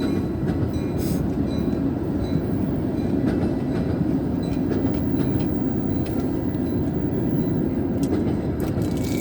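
Metra commuter train passing close by: a steady rumble of wheels on rails, with a few sharp clicks.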